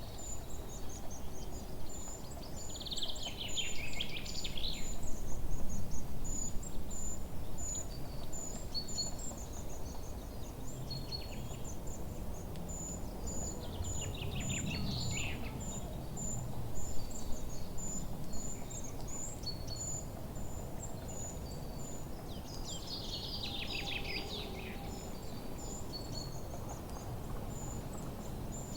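Forest ambience: birds singing short, falling phrases every several seconds over a steady run of high, short chirps, with a low background rumble.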